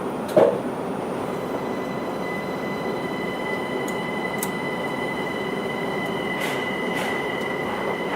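Interior running sound of a Linimo HSST maglev train under way: a steady rushing noise with no wheel or tyre noise, joined about two seconds in by a steady high whine. A brief knock comes near the start, and a few faint clicks come later.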